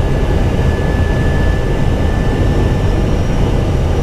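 Steady rumble of airflow and engines inside an Airbus A320 cockpit on approach, with the landing gear down. A faint, steady high whine runs through most of it.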